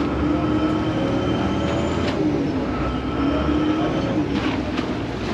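Vaporetto water bus engine running under way: a steady drone with a held whine over a low rumble, and a couple of faint knocks.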